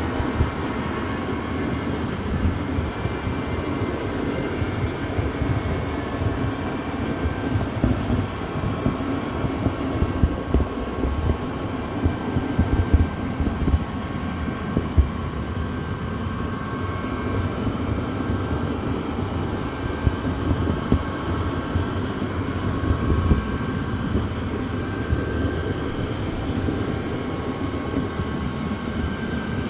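Train running: a steady low rumble with irregular knocks and faint steady tones above it.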